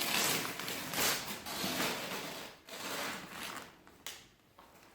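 Gift packaging being handled and rubbed: several short bouts of rustling and scraping that fade out after about three and a half seconds.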